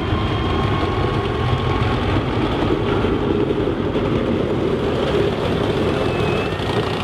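A vehicle engine running steadily: a dense low rumble with a faint high whine over it.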